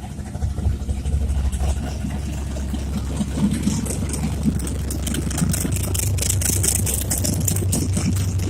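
A car engine idling steadily with a low rumble, growing a little louder about halfway through.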